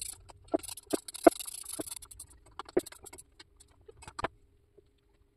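Sharp clicks and knocks of hand tools and parts, with some scraping, as a carburetor and its air-filter housing are fastened back onto a Stihl trimmer. The clicks come scattered, most of them in the first three seconds, with a last one about four seconds in.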